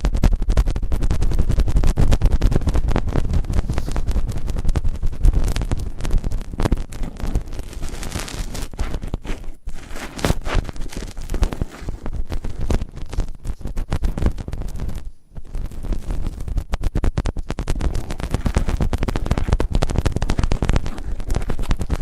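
Close-up ASMR ear-cleaning sounds: continuous scratching and rubbing directly on the microphone, loud and crackling, with brief pauses about ten and fifteen seconds in.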